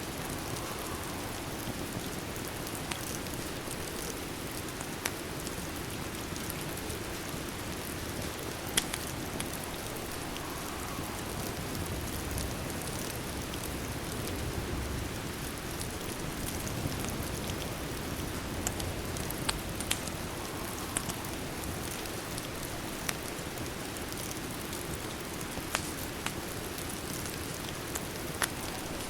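Steady rain falling, with scattered sharp pops and crackles from a wood fire about a dozen times.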